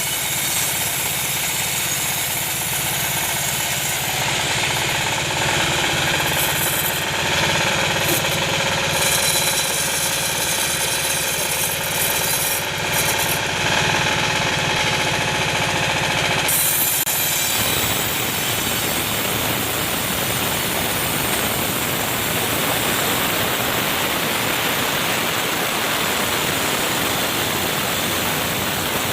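Sawmill machinery running, a steady mechanical hum with a broad rushing noise over it. About two-thirds of the way through, the hum drops out and an even rushing noise carries on.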